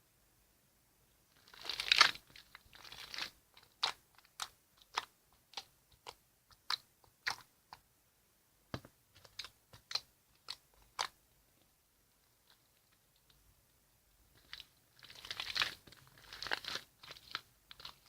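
Homemade slime worked by hand, with crackly squishing stretches near the start and near the end. In between comes a series of short sharp clicks, about two a second.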